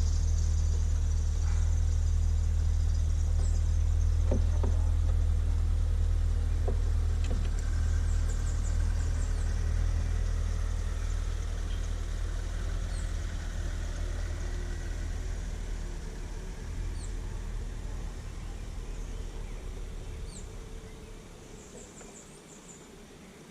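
Low, steady engine hum of a motor vehicle that fades away gradually over the second half. Faint, short, high bird chirps sound over it.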